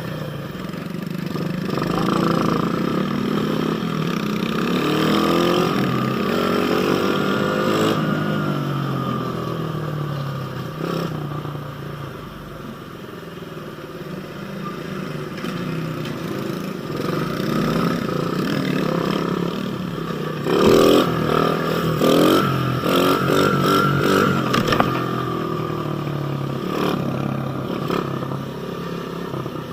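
Pit bike engine running under way, its pitch rising and falling as the throttle is worked and gears change. About two-thirds of the way through comes a few seconds of sharp knocks and rattles, the loudest part.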